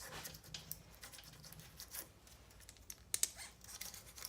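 Faint, irregular light clicks and scrapes of a steel feeler gauge being worked around the air gap between a motorcycle alternator's rotor and stator, with one sharper tick about three seconds in.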